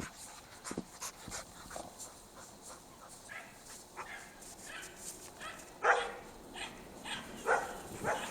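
Norwegian Elkhounds playing and giving short yips and barks. Two louder barks come near the end, about 6 and 7.5 seconds in.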